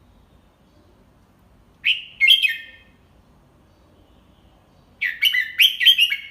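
Red-whiskered bulbul singing in slow, clear phrases, a tutor song for young bulbuls to copy. A short phrase comes about two seconds in, then a longer run of quick notes from about five seconds in.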